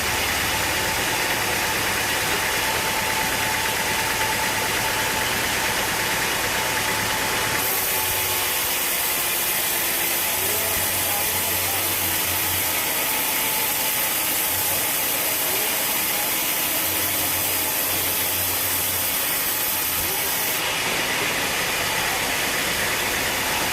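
Sawmill machinery running steadily: a continuous engine-like drone under a wide hiss. The sound changes abruptly twice, about eight seconds in and again near the end.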